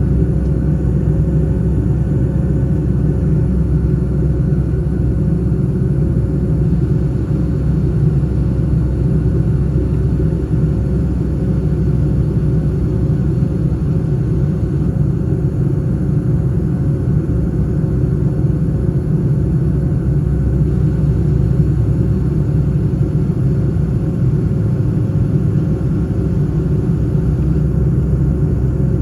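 Steady low rumble of a Boeing 757-200 in flight, engine and airflow noise heard inside the passenger cabin, with a faint steady hum above it.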